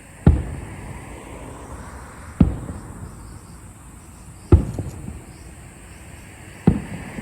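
Fireworks going off: four booms at an even pace, about two seconds apart, each fading away quickly.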